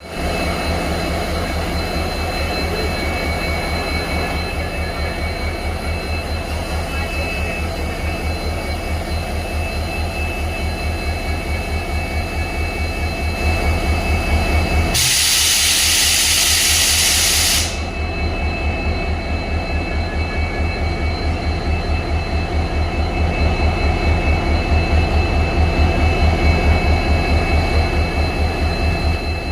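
Diesel engine running steadily with an even, low pulsing beat. About fifteen seconds in, a loud hiss cuts in for nearly three seconds, then stops sharply while the engine keeps running.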